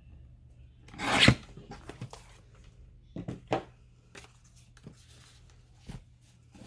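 Paper rustling and sliding as sheets are handled, with the loudest rustle about a second in, two more around three and a half seconds, and a few small taps, over a faint steady low hum.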